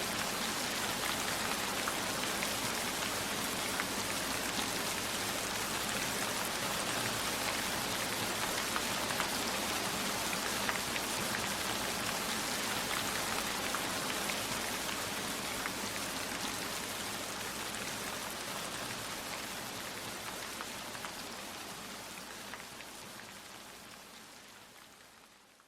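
Steady rain falling, a dense hiss with many small drop taps, fading out over the last ten seconds or so.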